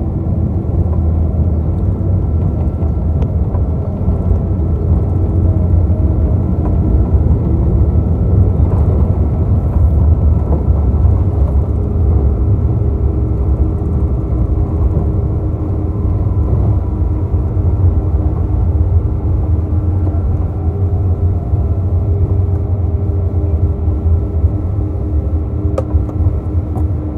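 Boeing 777-200 cabin noise from a window seat: a steady, loud low rumble of engines and airflow, with a faint tone that slowly falls in pitch about midway as the engines change power.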